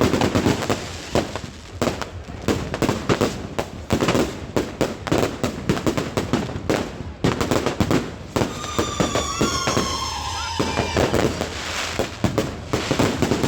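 Fireworks going off in a rapid, irregular series of bangs and crackles. About nine seconds in comes a long whistle that falls slowly in pitch for a couple of seconds.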